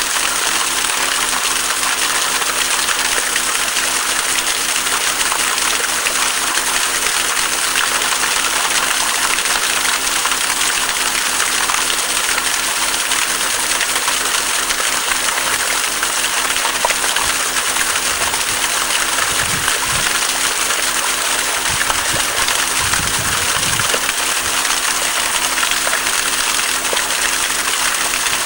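Stream running through a rocky rift: a steady rush of flowing water.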